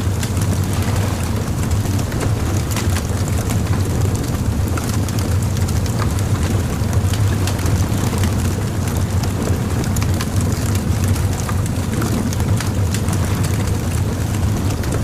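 Bonfire crackling, with frequent sharp pops and snaps over a steady low rumble.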